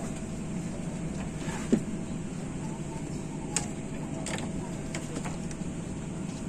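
Steady low hum of an airliner cabin, with a sharp knock just under two seconds in and a lighter click about three and a half seconds in.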